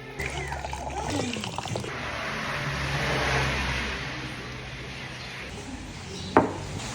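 A motor vehicle passing on a rain-wet road: engine hum with tyre hiss that swells to a peak about three seconds in, then fades.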